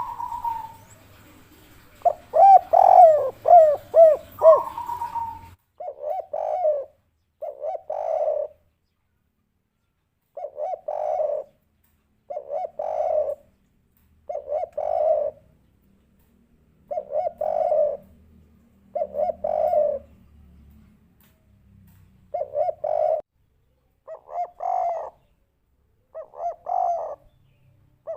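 Spotted dove (derkuku) cooing in the 'kuk 3' style. A longer, louder run of coos comes about two seconds in, then short coo phrases repeat every couple of seconds with brief silences between.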